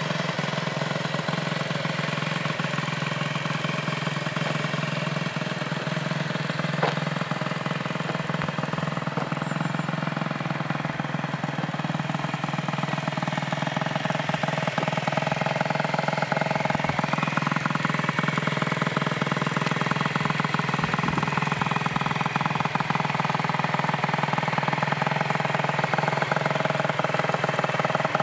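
2002 Gilera DNA50 moped's 50cc two-stroke single-cylinder engine idling steadily, a little louder in the second half, with one sharp click about seven seconds in.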